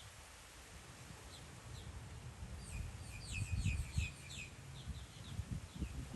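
Small bird chirping: a rapid run of short, high chirps about three seconds in, then a few single chirps, over a low rumble of wind or handling noise.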